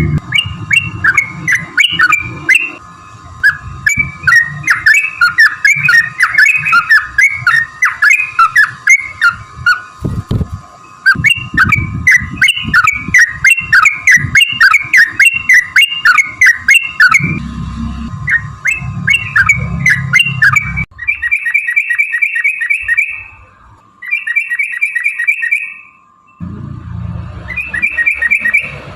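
Yellow-vented bulbul (trucukan) singing a long, fast, bubbling chatter of warbled notes. From about 21 seconds in it breaks into short rapid trills repeated with brief pauses. A faint steady tone sits under the song.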